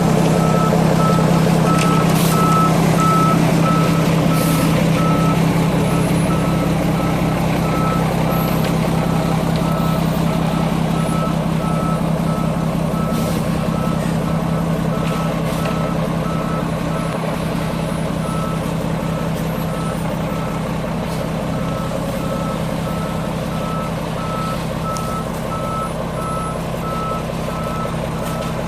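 Concrete mixer truck backing up: its reverse alarm beeps at a steady even rhythm over the diesel engine running.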